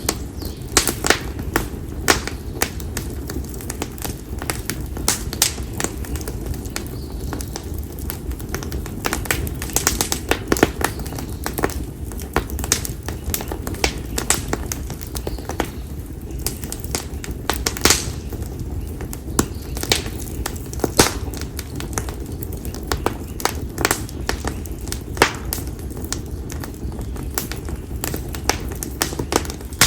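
Split konara oak (Quercus serrata) firewood burning in an open campfire, crackling with frequent irregular sharp pops over a low steady rumble.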